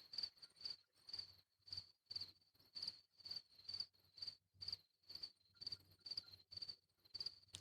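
Cricket chirping at night: faint, short, high chirps at one steady pitch, repeating evenly about twice a second.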